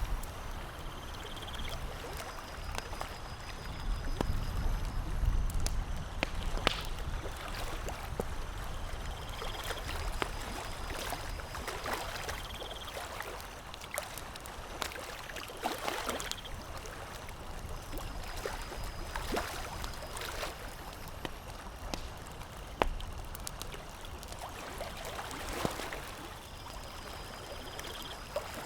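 Campfire crackling and popping, with water lapping and gurgling underneath. A low wind rumble swells a few seconds in, and a faint high chirp repeats now and then.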